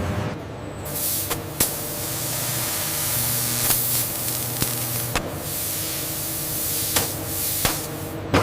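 A steady spraying hiss, like pressurised air or mist, starting about a second in over a low machine hum, with a few sharp clicks scattered through it.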